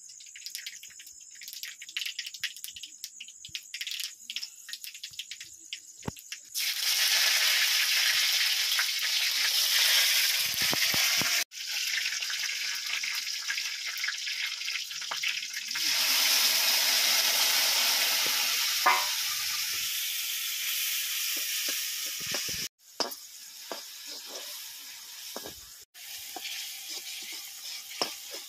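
Food frying in hot oil in a kadhai: a loud sizzle about six seconds in as whole dried red chillies and green leaves hit the oil, then a second loud sizzle from about 16 s as a spice paste goes in. It drops to a quieter frying sizzle near the end while the masala is stirred.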